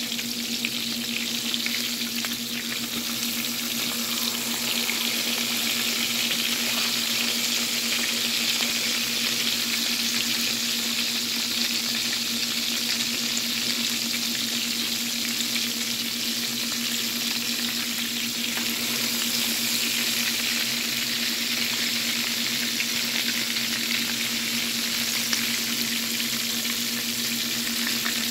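Flour-dredged pork chops shallow-frying in hot oil in a skillet: a steady, dense sizzle of bubbling oil with fine crackling, growing a little louder over the first few seconds.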